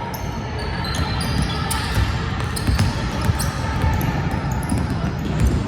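A basketball being bounced on a gym floor during a game, a scatter of short thuds over a steady background of crowd and court noise.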